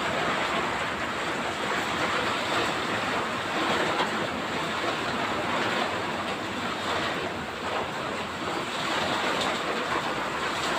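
Heavy tropical downpour with wind: a steady, dense hiss of pouring rain.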